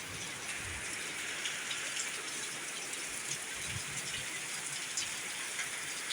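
Heavy rain falling in a steady hiss, with faint scattered drop ticks.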